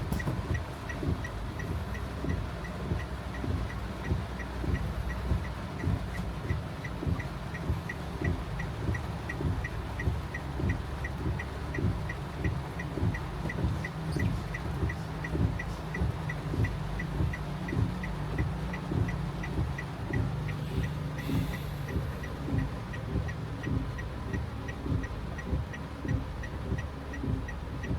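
Inside a car in heavy rain: rain drums on the body and the engine idles with a low rumble. The windshield wipers sweep about once a second, and a fast, even ticking runs underneath.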